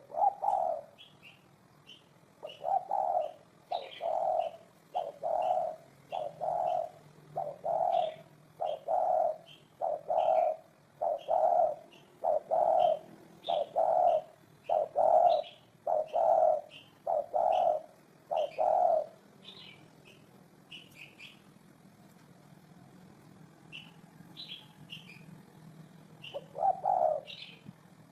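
Spotted dove cooing: a long string of low coos, about one a second, that stops about two-thirds of the way through, with one more coo near the end. Short high chirps from a smaller bird run underneath.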